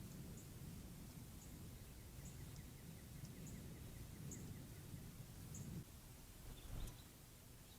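Faint wild birdsong: a short high chip repeated about once a second, with a quick, even trill of notes a couple of seconds in, over a low steady background rumble. A soft knock comes near the end.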